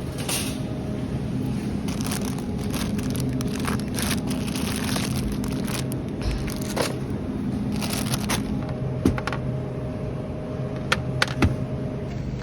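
A vehicle's steady low engine and road hum, with scattered crackling and rustling and a few sharp clicks near the end.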